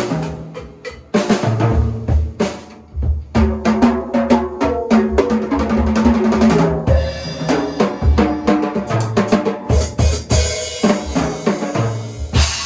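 Acoustic drum kit played as a warm-up: quick runs of strikes across snare and toms over the bass drum, with a cymbal crash about ten seconds in and another near the end.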